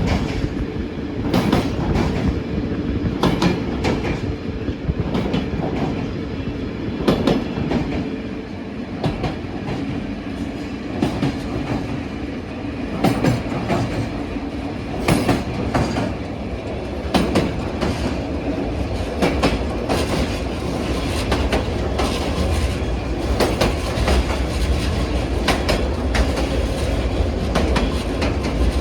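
Passenger train wheels clacking unevenly over rail joints, with a steady running rumble, heard from aboard the train; the low rumble grows heavier in the second half.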